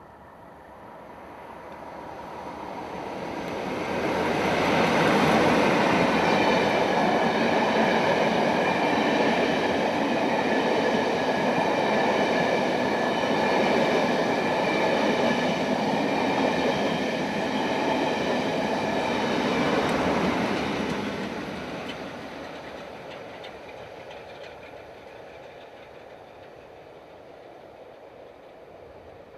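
A Class 47 diesel locomotive hauling a train past: the sound of engine and wheels builds over about four seconds, holds loud for about sixteen seconds with a steady whine of several tones above the rumble, then dies away.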